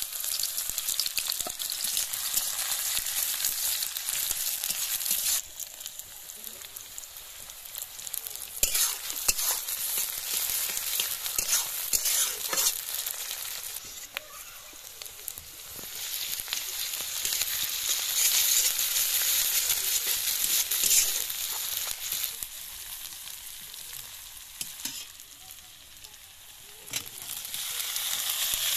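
Sliced onions sizzling in hot oil in a kadai, with the scrape and clink of a metal spatula stirring. The sizzle swells and fades, dies down for a few seconds and picks up again near the end as tomato wedges are tipped in.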